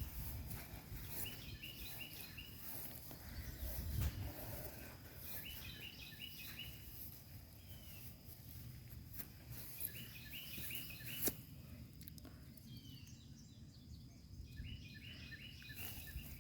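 A songbird singing a short phrase of quick chirps, repeated about every four to five seconds, over faint outdoor background noise. There are a few low bumps and one sharp click about eleven seconds in.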